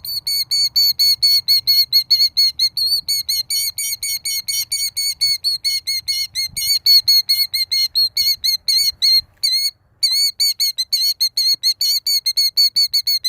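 Killdeer giving a rapid, continuous string of short, high alarm notes, about five or six a second, with one brief break about ten seconds in: the parent's alarm at people close to its nest of eggs.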